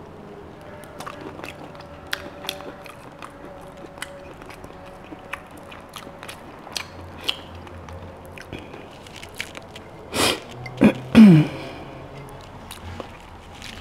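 Close-up eating sounds: chewing and biting into roast rack of lamb, with small wet mouth clicks and smacks. About ten seconds in there are a few louder sudden sounds, the last one sliding down in pitch.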